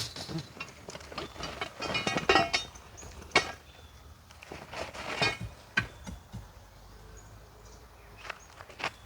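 Irregular knocks, clicks and scrapes, clustered about two seconds in with a few single knocks after, as of things being handled at a campsite.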